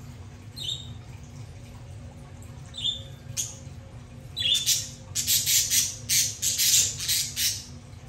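Bird calls: two short chirps, then from about four and a half seconds in a rapid run of loud, harsh squawks, about eight in three seconds.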